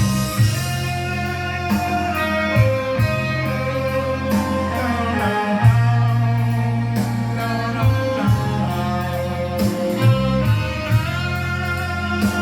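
Live blues-rock band playing an instrumental break: electric guitar lead with bending notes over bass and drums.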